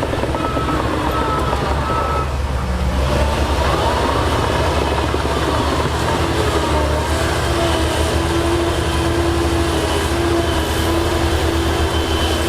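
Heavy diesel earthmoving machinery running steadily: a low engine rumble with steady whining tones above it. The pitch shifts briefly about three seconds in.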